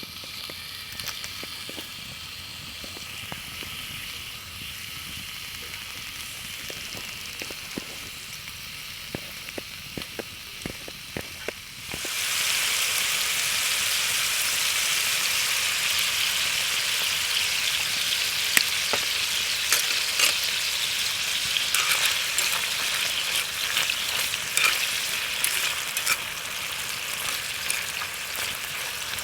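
Food frying in a skillet: a soft sizzle with scattered clicks, which jumps suddenly much louder about twelve seconds in and carries on as a strong sizzle with many small pops.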